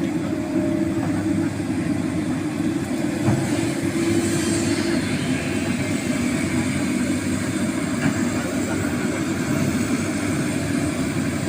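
Excavator's diesel engine running steadily under work, a continuous even engine noise with no pauses.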